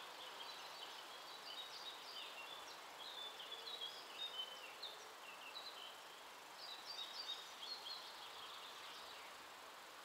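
A songbird singing two runs of quick, short, high chirping notes, the second run starting about a second after the first ends, over a faint steady background hiss of open-air ambience.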